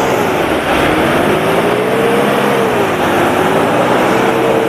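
Off-road 4x4's engine revving hard as it drives through deep mud, its pitch dipping at first, climbing over about two seconds, falling again and then held high near the end.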